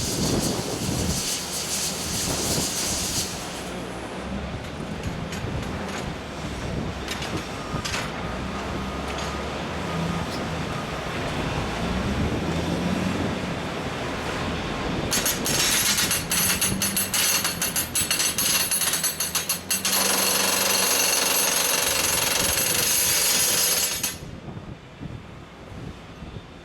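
Everdigm ECD45E top hammer drill rig drilling: the rock drill hammers rapidly over a loud hiss, eases to a quieter running stretch, then hammers hard again and cuts off suddenly near the end, leaving the rig's engine running quieter.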